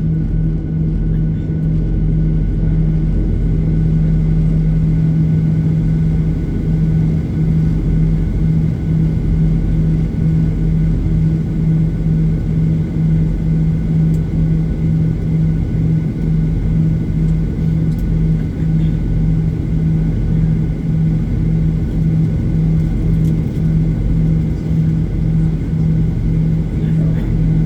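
Steady low rumble and hum inside a Boeing 737-800 cabin during engine start, with the hum pulsing evenly throughout.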